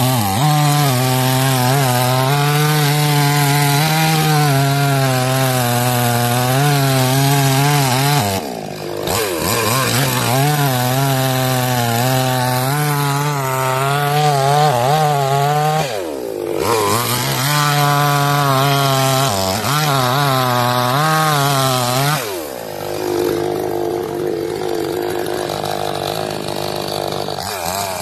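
Two-stroke Huyosen gas chainsaw running at high revs while cutting wood, its pitch dropping and climbing back up three times as the revs fall and recover.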